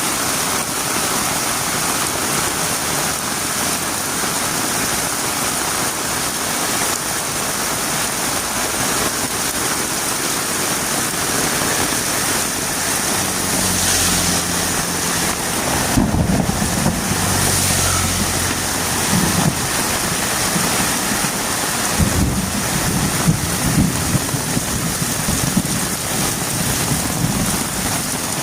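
Heavy rain falling steadily as an even hiss. From about halfway through, irregular low rumbles and thumps come and go underneath it.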